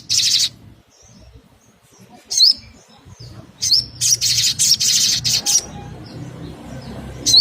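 Sogok ontong, a sunbird-family songbird, calling: a burst of rapid high chirping trills at the start, single sharp upswept notes a few times, then another long run of rapid high chirps about four seconds in.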